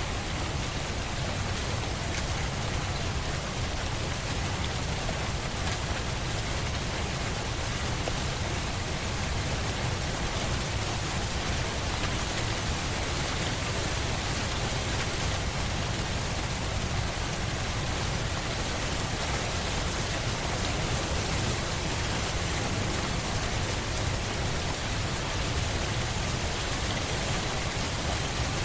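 Steady rainfall, a dense even patter of raindrops on a surface with a low rumble underneath, unchanging throughout.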